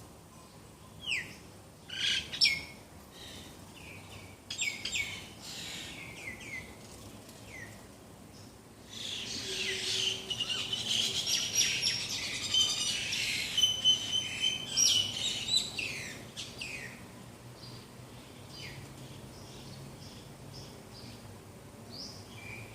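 Several birds calling and singing: scattered sharp chirps that slide downward in pitch, then, about nine seconds in, a dense chorus of many overlapping calls for several seconds before it thins out again.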